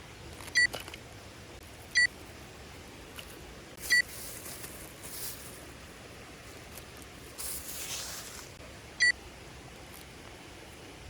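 Four short, high electronic beeps at uneven intervals, the first three about two seconds apart and the last after a longer gap, over a low background hiss with a couple of soft rustles.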